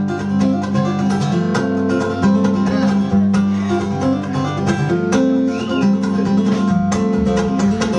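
Acoustic guitar playing a live song intro: a steady run of plucked notes ringing over sustained bass notes.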